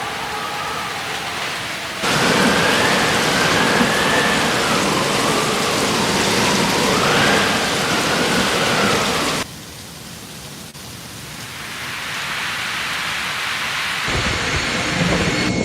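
Heavy rain pouring down in a thunderstorm, a steady roar of rainfall. It jumps abruptly louder about two seconds in and drops suddenly about two-thirds of the way through, then swells again. A low rumble comes in near the end.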